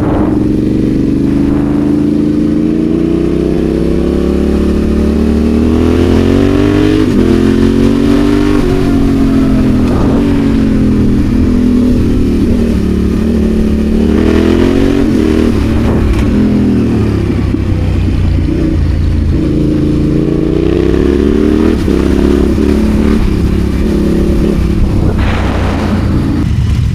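Adventure motorcycle engine running under way, its revs rising and falling again and again as the rider accelerates and eases off, with a short noisy burst near the end.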